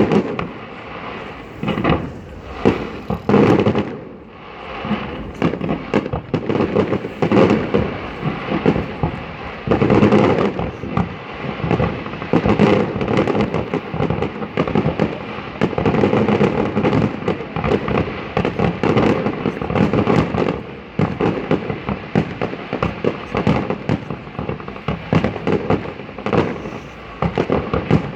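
Aerial fireworks display: a dense, continuous barrage of shell bursts, booms and crackling, with heavier clusters of bangs every few seconds.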